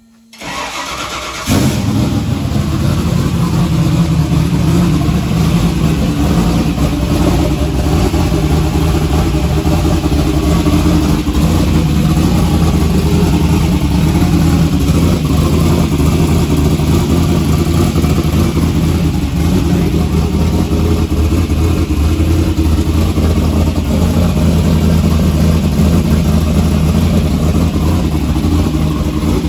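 Turbocharged engine of a classic Ford Mustang is cranked on the starter, catches about a second and a half in, and keeps running loudly and steadily.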